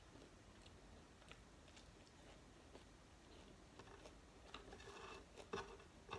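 Faint close-up eating sounds: scattered soft clicks and chewing. These grow busier in the last two seconds, with a sharper click about five and a half seconds in.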